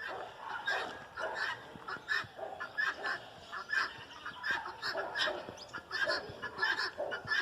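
Farmyard poultry calling and clucking, with many short calls overlapping one another.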